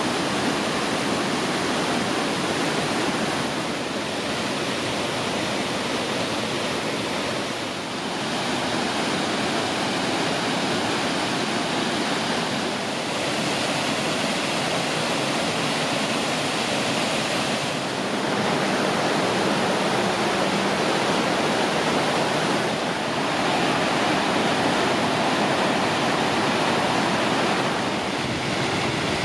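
Steady roar of rushing water from a waterfall; its tone shifts a little every few seconds.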